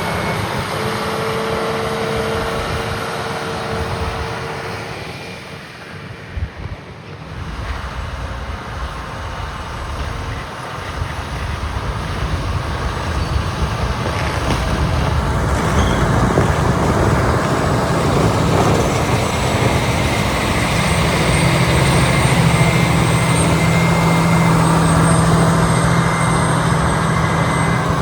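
Heavy diesel engines of motor graders running while clearing snow. The sound dips to its quietest about six seconds in, then builds to a loud, steady engine note with a low hum over the last third as a grader works close by.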